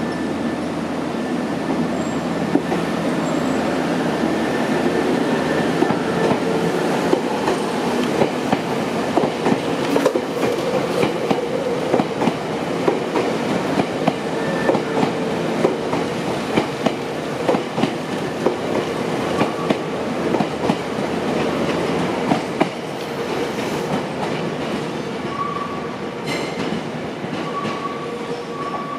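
Semboku Rapid Railway 3000 series electric train pulling out of the station and running past, its wheels clacking over rail joints. The sound fades near the end as the train draws away.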